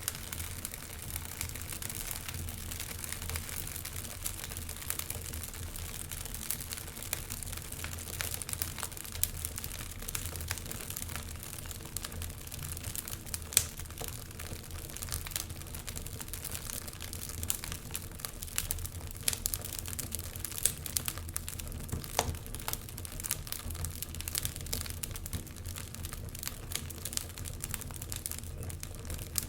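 Wood fire burning in a fireplace, crackling and popping irregularly over a low steady rumble, with a sharper pop about halfway through.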